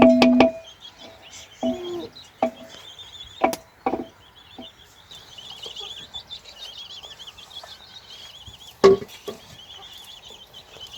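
Sharp wooden knocks, a few in the first four seconds and one loud knock near the end, with a small bird's repeated high warbling call in the background and a brief cluck at the start.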